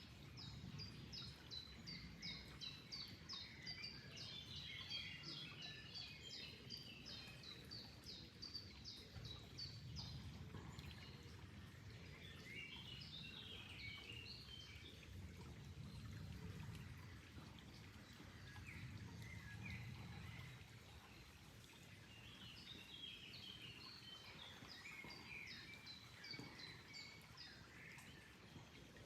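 Songbirds singing in bursts of rapid, repeated high chirps, over a faint low rush of flowing water.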